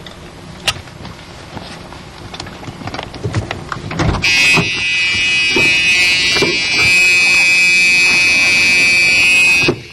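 A car's warning buzzer, sounding in one loud, steady high buzz for about five seconds as the driver's door is opened, then cutting off suddenly. Before it come a few clicks and rustles of the occupant moving to get out.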